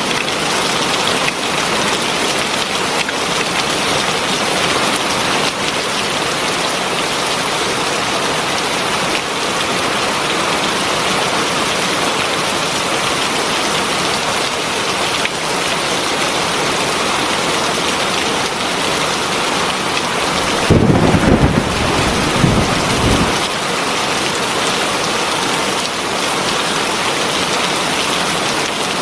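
Heavy rain falling steadily, a dense even hiss. About 21 seconds in, a low rumble of thunder rises for a couple of seconds and is the loudest thing heard.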